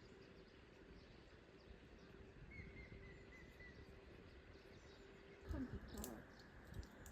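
Near silence: faint outdoor ambience with a low, even rumble, a faint chirp about two and a half seconds in and a brief faint sound about five and a half seconds in.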